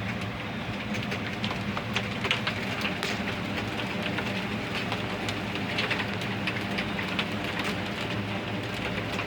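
Rain falling, with many irregular drop ticks over a steady hiss, against a steady low hum.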